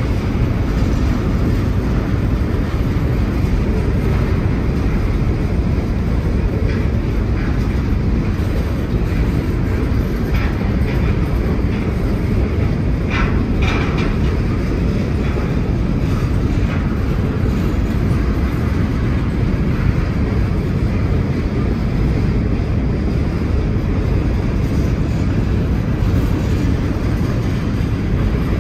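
Steady, loud wind rumble buffeting the microphone while riding a bicycle, with a few faint short higher sounds about halfway through.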